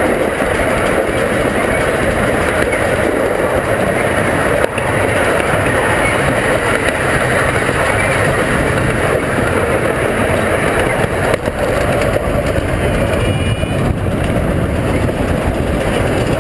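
Zoo ride train running, heard from aboard: a steady loud rumble of the train and its wheels on the track.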